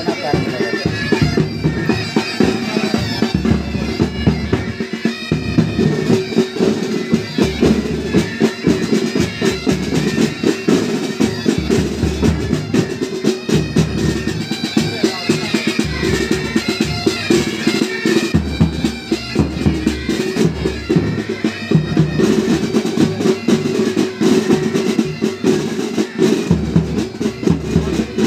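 Pipe band playing: Great Highland bagpipes sounding a steady drone and melody over continuous side-drum rhythm.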